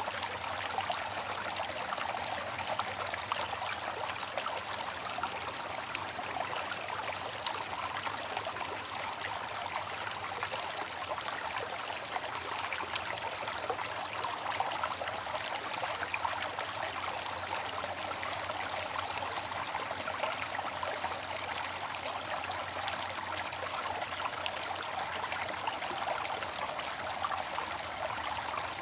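Water fountain splashing steadily, a continuous trickle and spatter of falling water.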